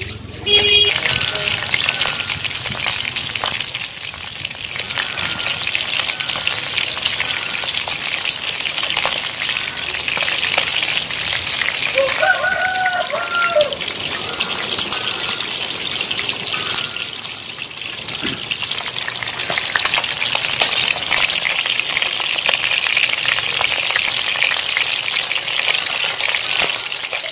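Skinned rats frying in hot oil in a pan, a steady sizzle with dense crackling and spitting throughout.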